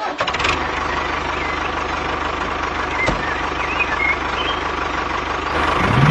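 A motor running steadily, like an idling engine, with a fast even low pulse and no change in speed.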